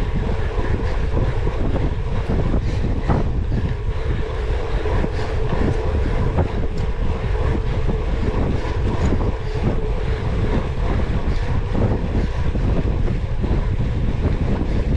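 Cyclocross bike being ridden hard over rough ground: steady wind rush on the microphone, with quick irregular rattles and knocks from the chain and frame over bumps.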